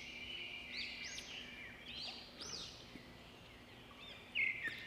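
Birds chirping, a series of short, repeated arching calls, over a faint steady low hum.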